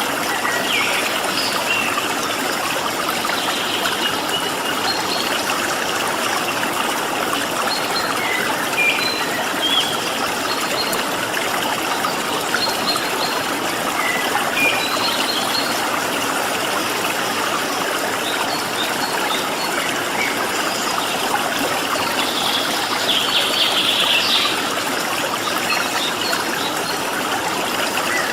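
Flowing stream water running steadily, with short bird chirps scattered over it and a brief denser flurry of chirping late on.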